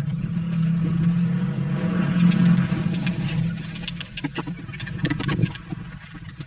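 Engine running steadily, with scattered sharp knocks over it. The engine note drops away about five and a half seconds in.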